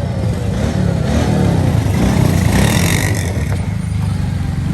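Several motorcycle and quad engines running at once, one or more revving up and down so that the pitch rises and falls, loudest around the middle.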